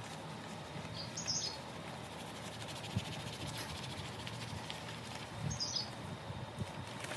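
A small bird chirping twice, about a second in and again some four seconds later, over the soft rubbing of a hand smoothing self-adhesive wood-grain film onto a speaker cabinet.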